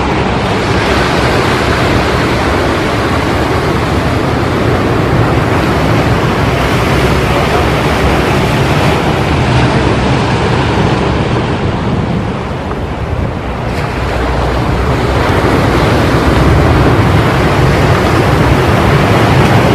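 Ocean surf washing continuously, with wind buffeting the microphone in a low rumble. The noise eases for a moment a little past the middle and then swells again.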